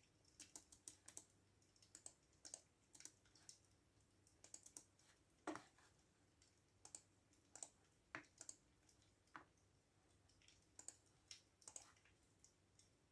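Computer keyboard typing: quiet key clicks in short irregular runs with brief pauses between them.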